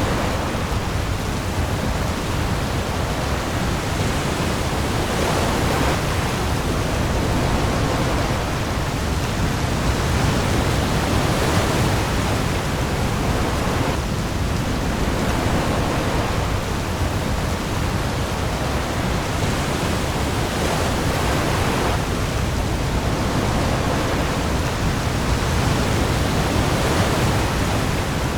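Heavy rain falling on the open sea with waves, a dense steady hiss that swells gently every several seconds over a deep low rumble.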